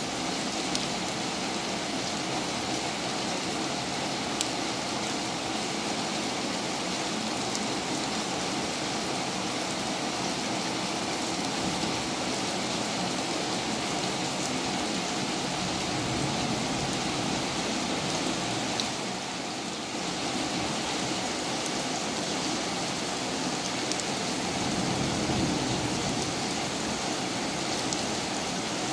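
Heavy rain pouring down in a steady, even hiss, with a few faint drop ticks; it eases slightly for a moment about twenty seconds in.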